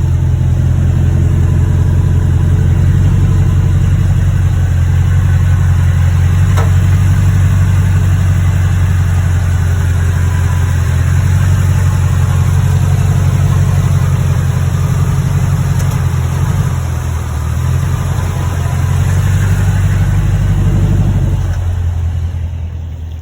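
Toyota Tundra pickup's engine running under the truck, loud and steady, with a popping noise coming from beneath the truck. The sound dips about three-quarters of the way through and falls away near the end.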